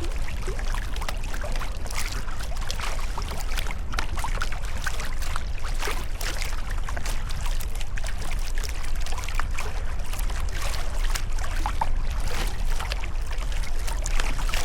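Sea kayak paddle strokes: the blades dip and pull through the water with splashing and dripping, over a steady low rumble.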